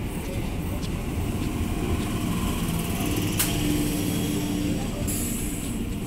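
Electric multiple unit local train pulling slowly out of the platform: a steady low rumble of the moving coaches with a level hum, one sharp click about three and a half seconds in, and a short hiss near the end.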